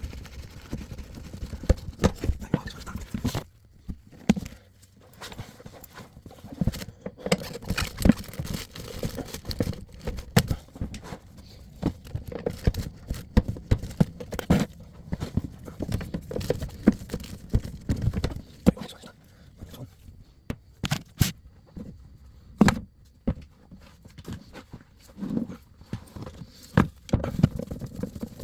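Irregular knocks, clicks and taps of hand tools and metal fittings being handled while a kitchen sink is undone from its fixings.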